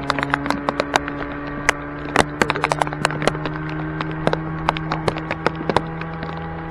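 Yamaha 2 hp outboard motor running at a steady pitch, with frequent irregular sharp clicks and knocks over it.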